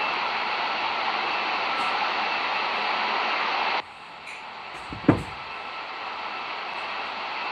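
Airliner cabin noise: a steady rushing roar that cuts off suddenly about halfway through. About a second later comes a single loud thump, and then the noise slowly builds again.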